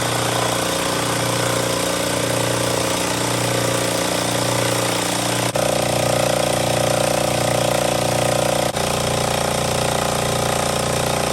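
Oilless electric air compressor motor and pump running steadily, with two abrupt shifts in tone partway through. The compressor cannot build pressure past about 65 to 70 psi, a fault the owner looks for in the pump head and its reed valves.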